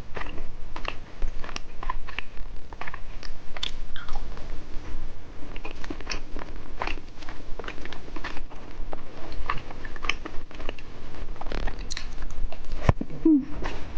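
Close-miked eating sounds: someone biting, crunching and chewing candy, heard as a dense, irregular run of crisp crackles and clicks.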